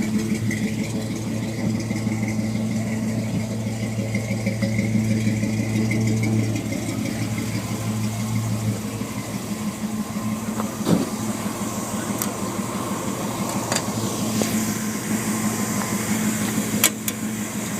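1973 Ford Bronco's carbureted 302 (5.0 L) V8 idling steadily. A few sharp clicks and knocks come over it in the second half.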